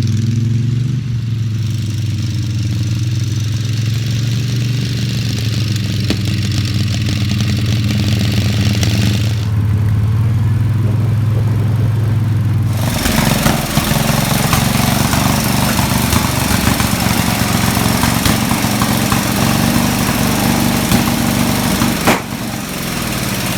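Small garden-tractor engine running steadily. About halfway through, its sound turns rougher and more ragged, with popping. The engine is out of tune: it pops and farts and needs a tune-up.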